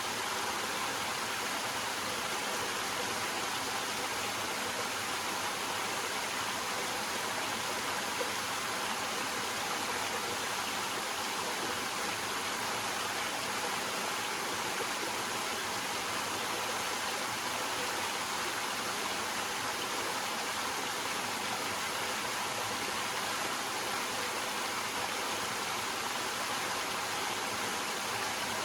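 Small waterfall: water cascading over rocks in a steady, unbroken rush that sits mostly in the upper range, with little low rumble.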